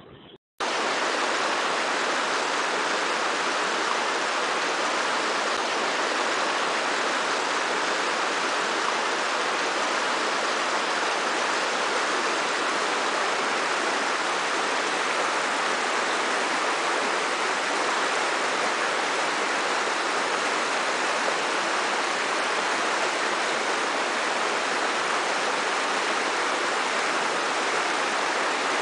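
Waterfall: a steady, even rush of falling water that comes in abruptly about half a second in.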